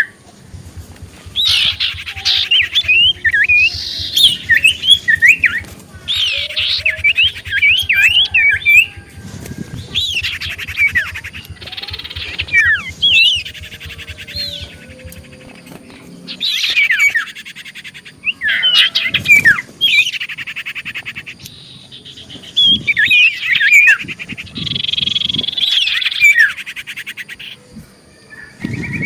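Common iora (cipoh) singing vigorously in repeated bouts of fast, jumping whistled notes mixed with buzzy trills. Each bout lasts a second or few, with short pauses between them.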